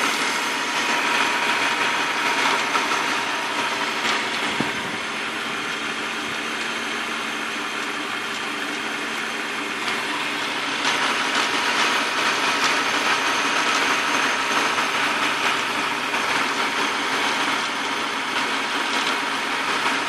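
BMW M52B28 2.8-litre straight-six idling, with a rattle from the front of the engine like a loose bolt rattling in aluminium. The owner places it around the oil filter housing and has ruled out the VANOS unit with a stethoscope. The sound gets louder about halfway through.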